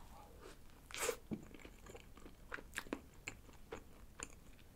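Faint close-up chewing of a soft cream-filled bun: small mouth clicks and smacks scattered through, with a short breathy sound about a second in.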